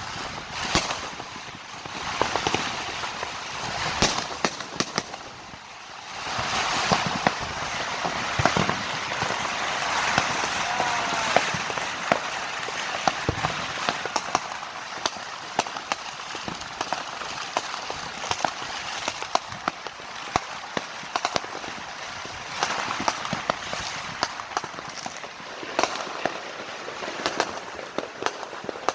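Many fireworks and firecrackers going off around the neighbourhood: a continuous crackle with many sharp pops and bangs scattered throughout. The crackle grows denser and louder from about six seconds in.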